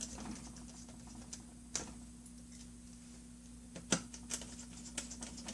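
Faint, irregular clicks and ticks of a small Phillips screwdriver driving two tiny screws into a laptop's LCD mounting, over a faint steady hum.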